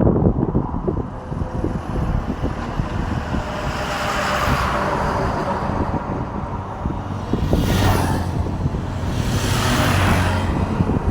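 Road traffic: a steady low engine drone, with vehicles swishing past about four seconds in, again near eight seconds and near ten seconds.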